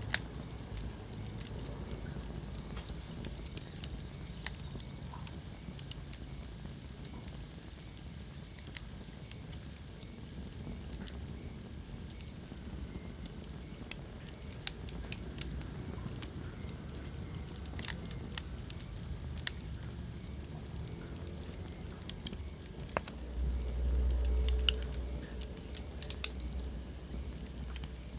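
Wood fire crackling in a fireplace: irregular sharp pops and snaps over the low, steady rumble of the flames, which swells for a couple of seconds near the end.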